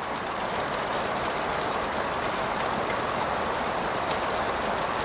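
Heavy rain falling steadily, a dense even hiss of drops with scattered sharper ticks.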